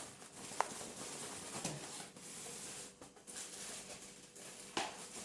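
Quiet handling of a cardboard packaging box and its contents: faint rustles and light knocks, with a sharp click about half a second in.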